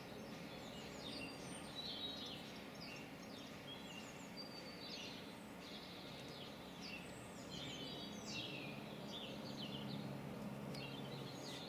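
Several songbirds chirping and trilling continuously, over a faint steady low hum.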